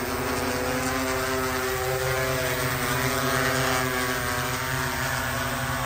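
Multirotor drone's propellers running with a steady whining hum of several pitched tones, the pitch drifting slightly up and down.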